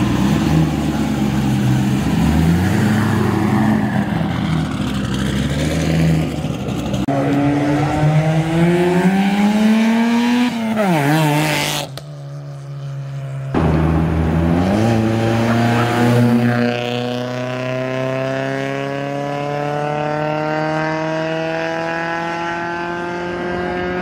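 Sports car engines pulling away and accelerating hard. One engine runs low and uneven at first, then climbs steadily in pitch until about 11 seconds in, wavers and drops off. After a short quieter gap, another engine climbs in one long, smooth rising pull.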